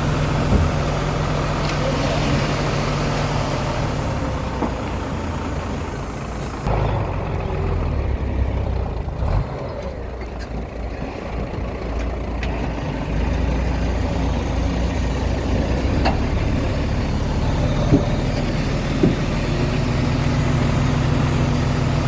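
Diesel engine of a Komatsu D21A bulldozer running under load while it pushes rock and soil, its engine note shifting about a third of the way in and then coming back up. A few short knocks are heard near the end.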